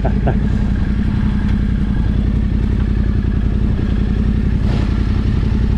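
Yamaha Ténéré 700's parallel-twin engine idling steadily while the bike stands still.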